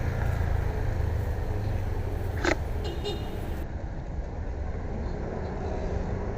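Road traffic noise heard while riding through city streets: a steady low rumble with wind and road hiss, and one short sharp sound about two and a half seconds in.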